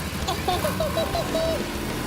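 A quick run of about six short squeaky chirps, like a cartoon voice effect, over a low vehicle engine rumble.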